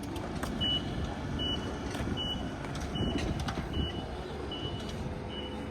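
Reversing alarm beeping steadily, a short high beep a little more than once a second, over the low rumble of a vehicle.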